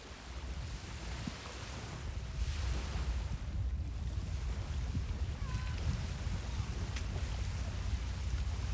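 Wind buffeting the phone's microphone in a constant low, fluttering rumble over a steady outdoor hiss by the water, with a couple of faint chirps in the second half.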